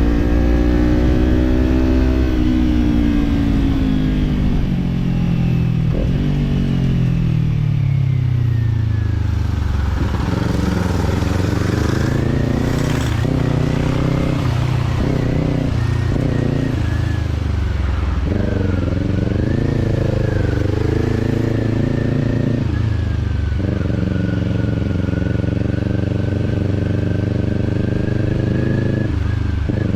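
Kawasaki parallel-twin motorcycle engine running through a slip-on exhaust while riding. Its pitch falls over the first several seconds as the bike rolls off the throttle, then rises and falls with the throttle, and holds steady near the end, broken twice by short gaps.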